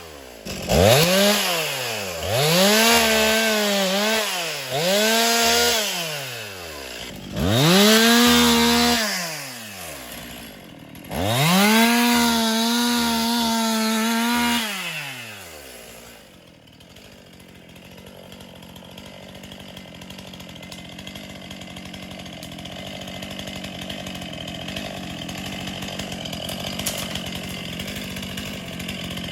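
Two-stroke chainsaw revved up and down in a string of short bursts, some held at full throttle for a few seconds, as it cuts wood. About halfway through the revving stops, leaving a quieter, steady engine drone that slowly grows louder.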